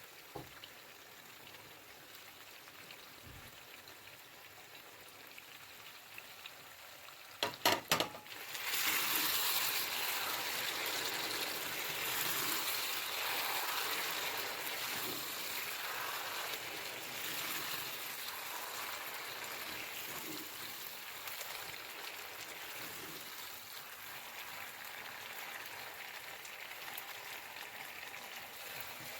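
Faint at first, then a few sharp clacks about seven and a half seconds in. Right after, chicken curry gravy with crushed fried onions starts sizzling and bubbling in the kadai, a dense hiss that slowly eases off.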